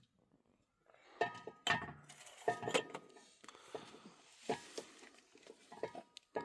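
Metal cookware being handled: a quiet first second, then about seven sharp, irregular clinks and knocks, some with a short ring.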